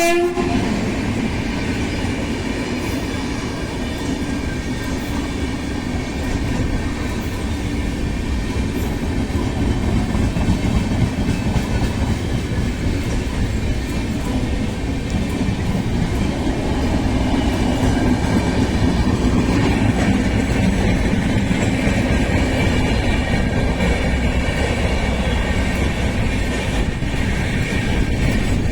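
Indian Railways express train passing through a station at speed without stopping: a loud, continuous rushing rumble with the wheels clattering over the rail joints.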